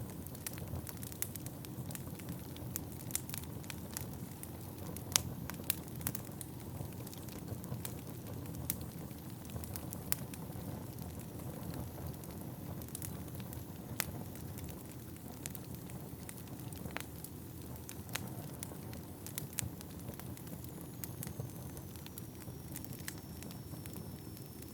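Wood fire burning in a fireplace: a steady low rush of flames with frequent sharp crackles and pops of the burning wood, the loudest about five seconds in.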